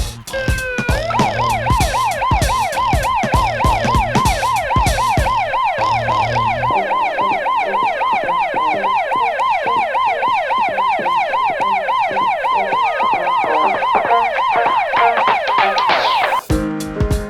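An emergency-vehicle siren in a fast wail, its pitch sweeping up and down about three times a second, with background music with a beat under it for the first several seconds. The siren stops abruptly near the end and the music returns.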